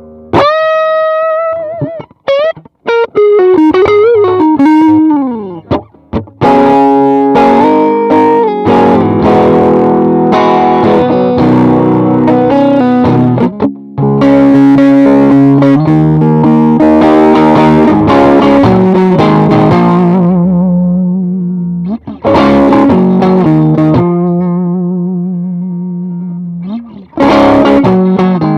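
Electric guitar played through a 68 Pedals Inca Kola overdrive pedal, a clone of the Zendrive Dumble-style overdrive. It opens with bent, vibrato-laden lead notes, moves into chords and riffs, and ends with more bent lead notes, with short pauses between phrases.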